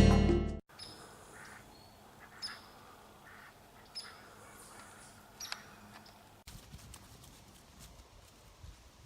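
Pekin ducks quacking: four short, separate quacks over a few seconds.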